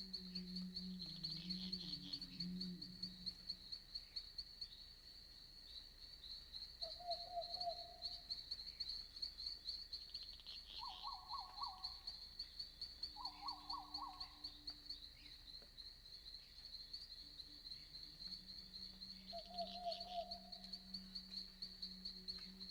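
Night forest ambience: a steady, high-pitched chorus of chirping crickets or other insects runs throughout. Over it come a few short calls, about 7 and 20 seconds in, and two brief trilled calls around 11 and 13 seconds in. A low hum is present at the start and returns about 18 seconds in.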